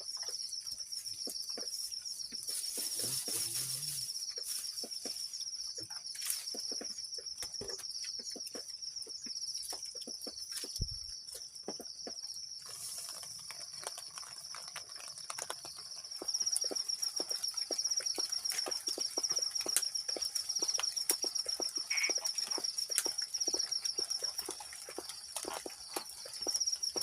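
Insects trilling steadily at a high pitch, with many scattered short clicks and taps throughout that grow denser and louder about halfway through.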